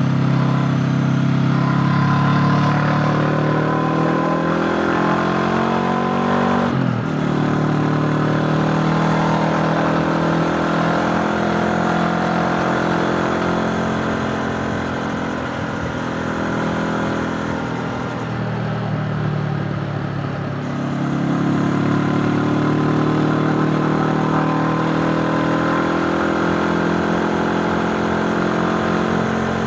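Honda CB500X's parallel-twin engine pulling on the move: the revs climb for several seconds, drop sharply at a gear change about seven seconds in, then hold fairly steady, sag briefly and climb again about two-thirds of the way through.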